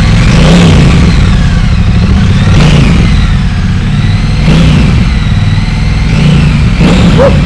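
Triumph Bonneville Bobber's 1200 cc parallel-twin engine running while its throttle is blipped about four times, each rev rising and falling over a second or so. A short sharp sound comes near the end.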